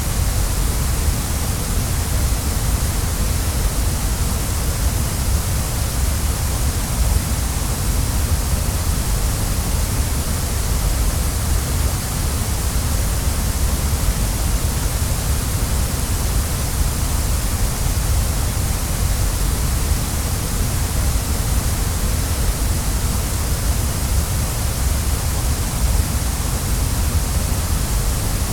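Waterfall: a steady, unbroken rush of falling water, even throughout with no distinct events.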